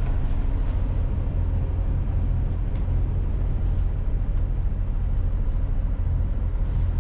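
Tartan 37 sailboat's inboard engine running steadily while motoring under way, a constant low drone.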